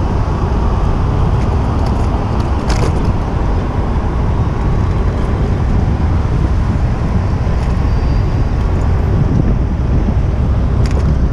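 City street traffic heard from a moving bicycle, under a steady heavy low rumble of wind on the action camera's microphone. Two short clicks stand out, about three seconds in and near the end.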